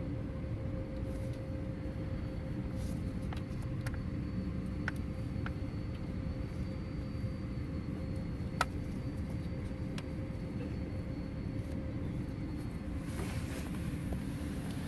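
A few light plastic clicks and knocks from an EVAP purge valve being slid back onto its mounting bracket, over a steady low hum.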